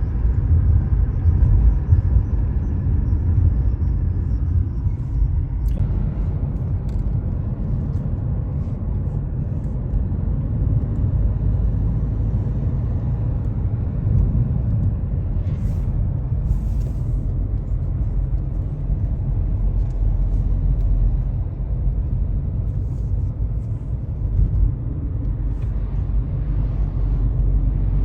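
Steady low rumble of a car driving on a two-lane road: engine and tyre noise from inside the moving car.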